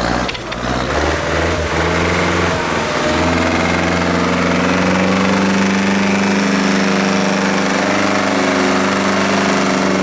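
Tractor engine running hard, picking up revs about two to three seconds in and then holding a steady, even note.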